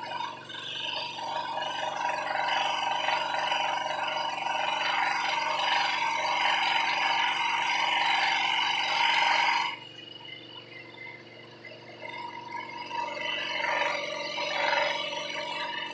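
Scroll saw running, its blade cutting through the workpiece with a loud, steady cutting noise over the motor's hum. The cutting noise stops abruptly about ten seconds in while the saw keeps running, and lighter cutting resumes near the end.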